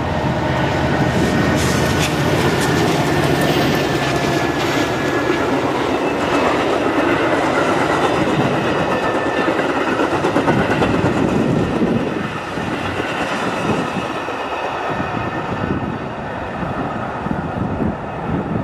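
Metra commuter train pulled by two diesel locomotives accelerating past: the locomotives' engine drone, then the rumble and clatter of the bilevel passenger cars' wheels on the rails as the train pulls away.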